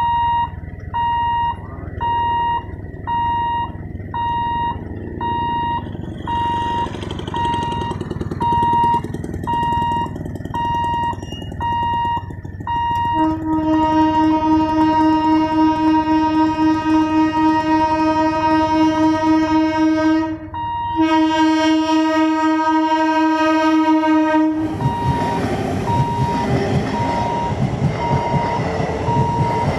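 A level-crossing warning buzzer beeps about once a second. About 13 seconds in, an approaching Medha EMU local train sounds its horn in two long blasts with a brief break between them. Near the end the train runs past close by with a loud rush of wheels on rail, while the buzzer keeps beeping.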